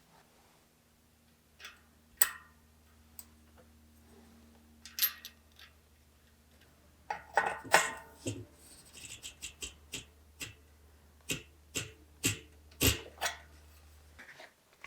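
Irregular clicks, taps and light rattles of tools and bicycle parts being handled during a bike build, with a busier cluster of clatter about halfway through. A faint steady hum sits behind them and stops shortly before the end.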